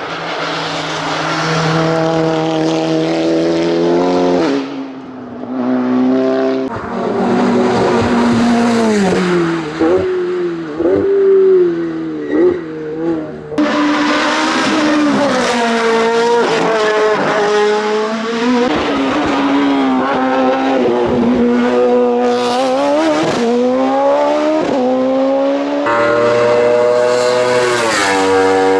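Race car engines at full throttle, the pitch climbing and dropping sharply at each upshift. About a third of the way through, the pitch wobbles and falls through quick downshifts and blips into a corner. The sound cuts abruptly to another car twice.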